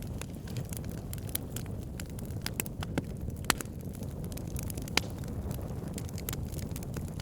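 Wood fire burning, its logs crackling with many irregular sharp pops over a steady low rumble of flame. Two louder pops come about three and a half and five seconds in.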